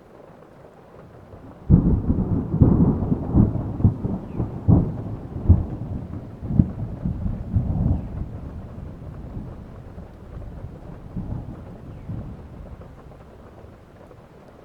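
A clap of thunder over steady rain: it breaks suddenly about two seconds in with a run of sharp cracks, then rolls into a low rumble that fades away over the next several seconds.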